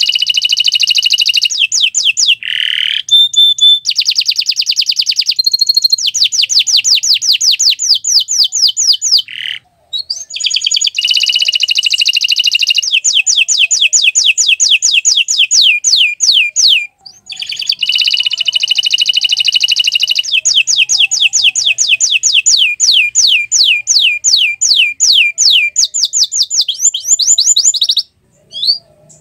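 Domestic canary singing long rolling phrases: fast trills of rapidly repeated high notes, about seven a second in places, broken by a few short pauses.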